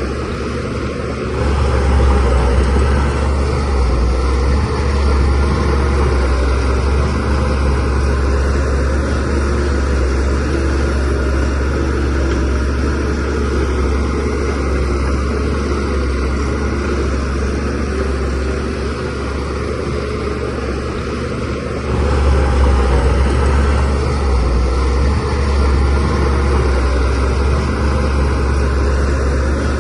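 DH17C3PRO bulldozer's diesel engine running steadily with a deep drone. The engine comes up louder near the start and again about two-thirds of the way through, as it is put under heavier load.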